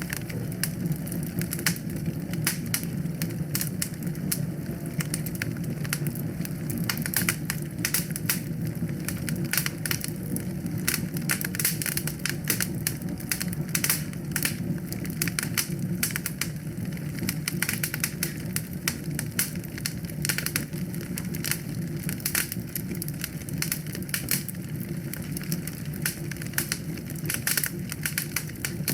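Wood fire burning in a fireplace: dense, irregular crackles and pops over a steady low rumble of flame.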